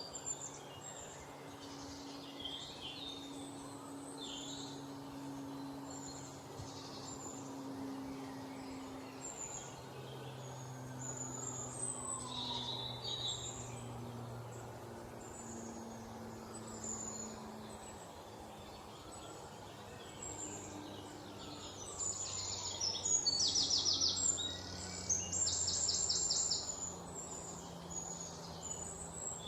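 Small birds chirping with short, high, thin calls, with louder runs of rapid repeated notes about 22 and 25 seconds in. A faint low steady hum lies underneath.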